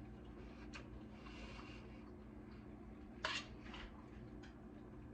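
A utensil scraping and clicking against a bowl of mac and cheese a few times, the loudest scrape about three seconds in, over a faint steady room hum.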